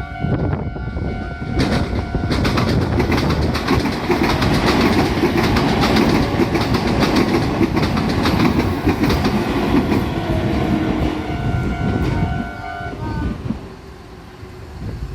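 A Meitetsu Nagoya Line train passes over a level crossing, its wheels clattering over the rail joints. The crossing's warning bell rings throughout; the train noise fades away about twelve seconds in and the bell stops soon after.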